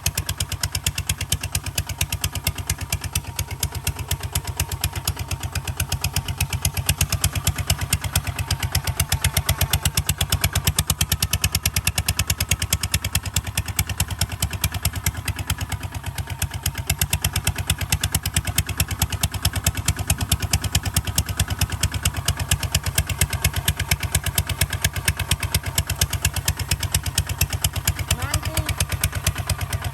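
Kubota ZT155 DI single-cylinder diesel engine running steadily, with a fast, even firing beat.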